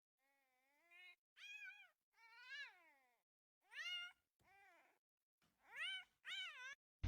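A small pet animal crying in about six short, quiet, meow-like calls, each rising and falling in pitch, with short gaps between them.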